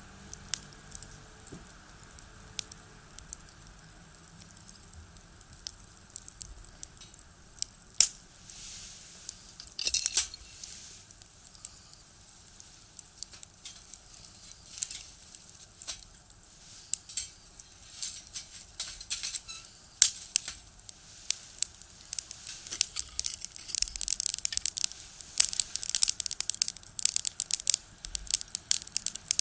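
Firewood crackling and popping in a small box stove: irregular sharp snaps, coming more thickly over the last several seconds.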